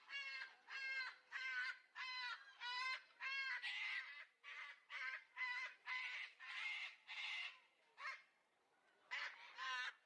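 A bird calling over and over, short calls with a wavering pitch at about two a second, breaking off briefly about eight seconds in before two more calls.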